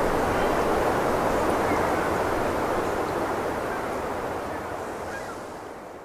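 Steady rushing background noise with no pecking strikes, slowly fading out over the last few seconds.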